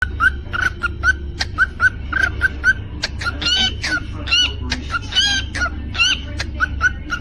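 Cockatiel chirping: a quick run of short chirps that hook upward in pitch, several a second, broken by two longer warbling whistles in the middle, with sharp clicks scattered throughout over a steady low hum.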